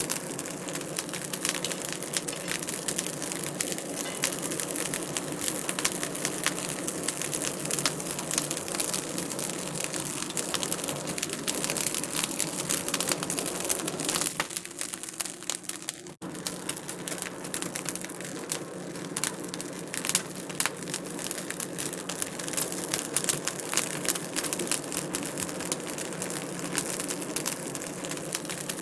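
Wood fire in a fireplace crackling, with a dense, steady run of small pops and snaps. The sound drops out for a split second about sixteen seconds in.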